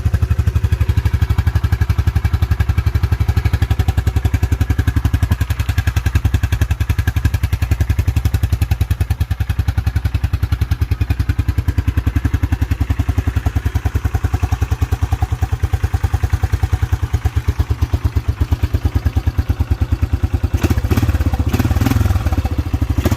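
A 1987 Yamaha Moto-4 350's air-cooled single-cylinder four-stroke engine idling steadily just after a cold start with no choke on an ice-cold engine. It runs really quiet, with no knocking or tapping. A few clattering knocks come near the end.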